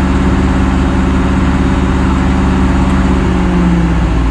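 Engine of heavy logging equipment idling steadily, its pitch shifting slightly near the end.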